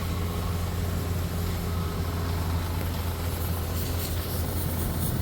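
Steady low droning hum of running machinery, even and unbroken.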